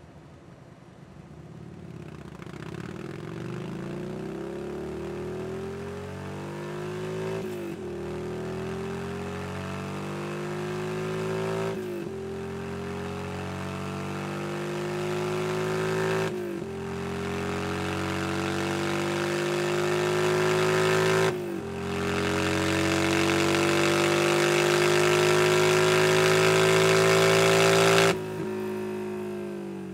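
Yamaha Star Bolt's air-cooled V-twin running through a Two Brothers Racing slip-on exhaust, accelerating hard through the gears. The engine note climbs steadily, dips briefly at four upshifts and climbs again, growing louder, then the throttle closes near the end.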